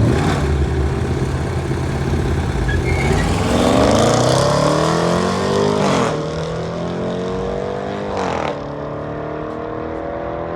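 Car engine accelerating hard, its pitch climbing through the gears, with a shift about six seconds in and another about eight and a half seconds in, then pulling steadily again.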